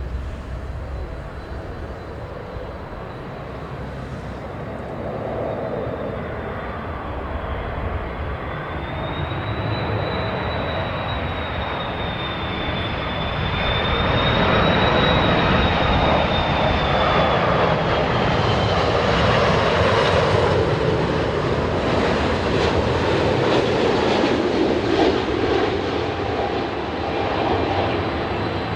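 Jet airliner flying low on landing approach: its engines run with a high whine that drifts slightly in pitch, growing steadily louder to a long peak and easing a little near the end, with strong wind buffeting the microphone.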